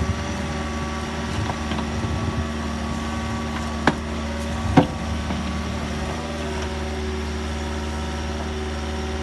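A heavy machine's engine running steadily, with two sharp knocks about four and five seconds in.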